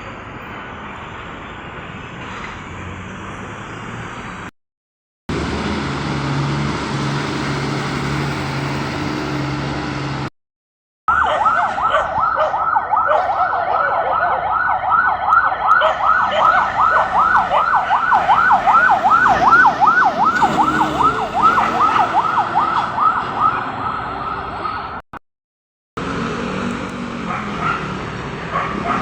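Emergency vehicle siren on its fast yelp setting, a rapid up-and-down wail at about three to four sweeps a second, loud for most of the latter half. It comes over road traffic and a steady low engine hum.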